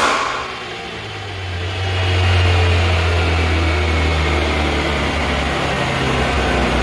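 Renault Mégane 3 RS's tuned 2.0-litre turbo four-cylinder: one sharp crack at the very start, then the engine drops off rev and, from about a second in, settles into a steady, deep idle.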